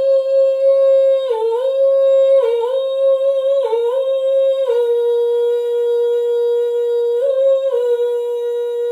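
A human voice humming one long, steady high note, dipping briefly three times in the first few seconds, then settling a little lower, with a short rise and return near the end.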